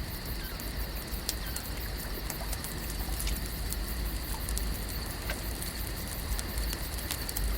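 Layered lake ambience: a steady wash of water noise with a low rumble underneath, many small sharp crackles and clicks scattered throughout, and a faint steady high tone held in the background.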